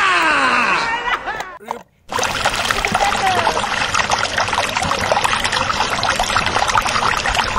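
A high voice-like sound gliding down in pitch over the first second and a half, then, after a brief break, water splashing and trickling in a plastic bucket as a hand swishes a plastic toy through it and lifts it out dripping.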